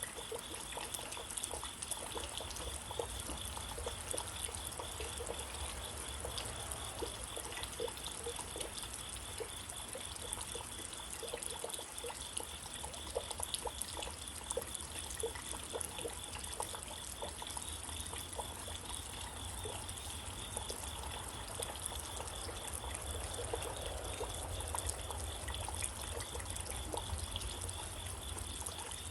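Steady rain falling, a constant hiss dotted with the patter of individual drops and drips. A faint, high, pulsing tone runs steadily underneath.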